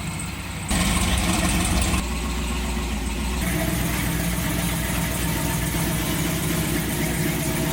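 Supercharged LS V8 engine in a Chevrolet C10 pickup running at idle, with a few abrupt jumps in its sound in the first few seconds.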